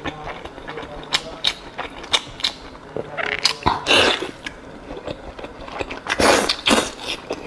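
Close-miked eating sounds: wet chewing, sucking and mouth clicks as a person bites into and chews beef-stuffed tripe parcels. Two louder stretches of biting and sucking noise come about three to four seconds in and again about six seconds in.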